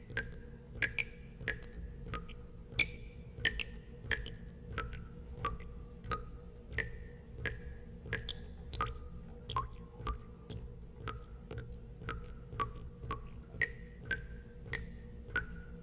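Water drops falling one after another into water, each a short plink with a brief ringing tone at varying pitch, roughly two a second in an uneven rhythm, over a steady low rumble.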